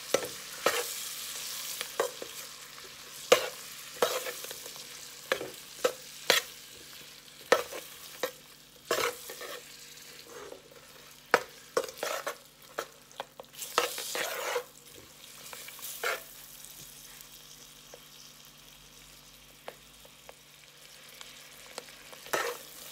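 Onions, peppers, garlic and curry powder sizzling in hot oil in a metal pot while a metal spoon stirs them, with frequent sharp knocks and scrapes of the spoon against the pot. The sizzle quietens in the second half.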